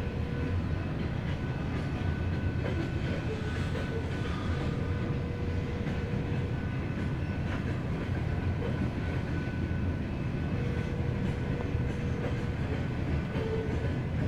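Wisconsin and Southern freight train cars rolling past on the rails, a steady low rumble with a few faint intermittent whining tones.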